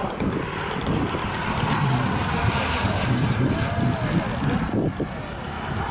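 Radio-controlled model jet flying past, a steady rushing turbine noise that swells in the middle, with wind on the microphone.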